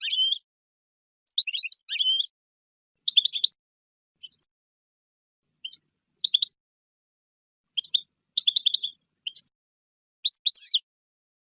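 European goldfinch singing: short bursts of quick, high twittering notes, broken by brief pauses.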